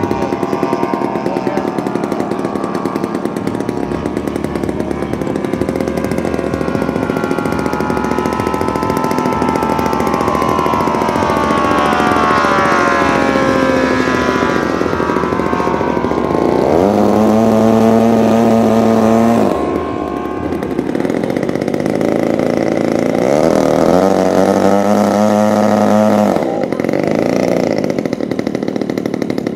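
Saito three-cylinder radial engine of a giant-scale RC AT-6 Texan model airplane running in flight, its pitch sweeping as the plane passes. Twice the engine is opened up and held for a few seconds, then throttled back sharply.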